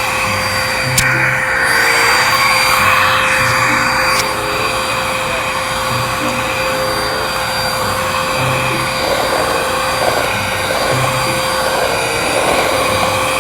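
Electric vacuum cleaner running steadily on grass: a loud rush of air with a steady high motor whine.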